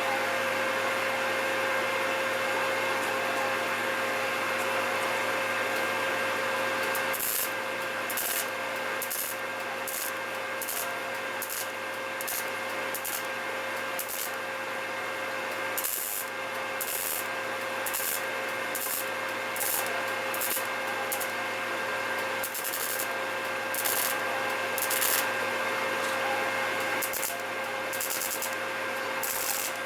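A power tool runs steadily. From about seven seconds in, short hissy bursts of grinding come and go irregularly as the tool works on metal.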